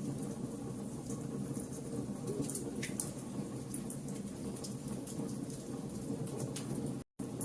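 Fire burning with a steady low rumble and scattered sharp crackles and pops. The sound cuts out completely for a moment about seven seconds in.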